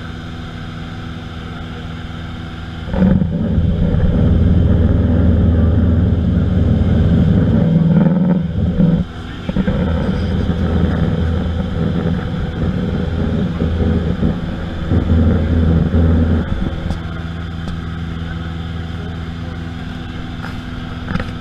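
Aircraft engine droning steadily with a constant pitch; a louder, rougher rumble comes in about three seconds in, drops out briefly, and eases off again after about sixteen seconds.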